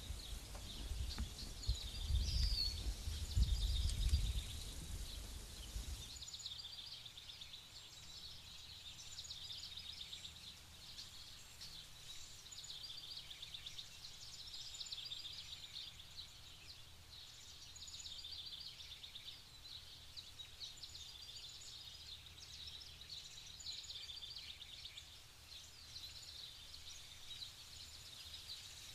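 Outdoor chorus of wild birds chirping and trilling steadily. For about the first six seconds a low rumble runs underneath, then cuts off abruptly.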